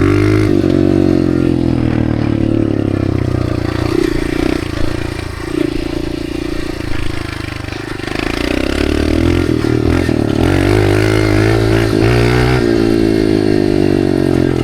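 Dirt bike engine and exhaust running while riding, the pitch rising and falling with the throttle; it eases off about a third of the way in, then climbs back up about halfway through.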